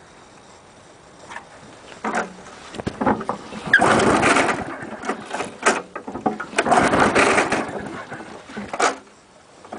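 Cold 3.5 HP Briggs & Stratton lawn mower engine being cranked by its recoil pull-starter without catching: two long pulls of about a second each, with shorter tugs and clicks before and after.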